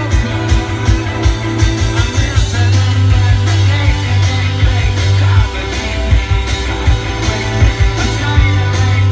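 Rock band playing live through a festival PA, with a heavy bass line and a steady drum beat.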